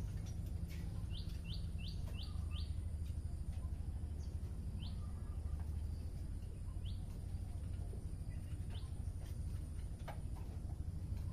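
A bird chirping: a quick run of five short rising chirps, then single chirps every couple of seconds, over a steady low background hum.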